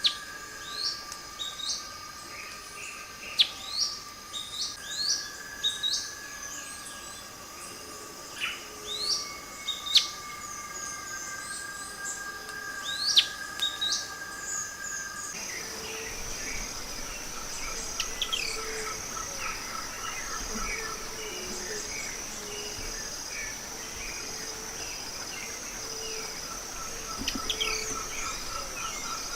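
Forest birds calling with short, sharp sweeping notes over a steady insect trill. About halfway through, the backdrop changes abruptly to a high steady insect buzz with a fast pulsing chirp, and the bird calls become fainter and more scattered.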